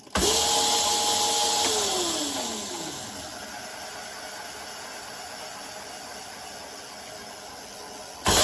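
Electric motor and chain drive of a Razor SX500 dirt bike run at 48 V with the speed potentiometer turned up: a whine that comes on suddenly and holds steady for about a second and a half, then falls in pitch as the motor winds down, leaving a steady hiss. Near the end the motor comes on suddenly again.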